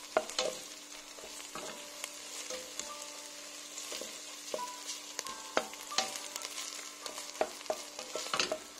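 Onions and tomato paste sizzling in oil in a metal pot while a wooden spoon stirs them, with scattered clicks and scrapes of the spoon against the pot.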